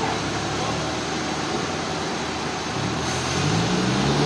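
Sawmill engine running steadily, its pitch rising about three seconds in as it revs up.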